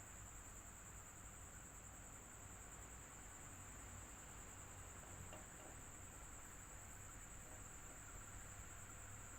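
Electric fan running steadily: a low hum under an even rush of air, with a faint steady high-pitched whine.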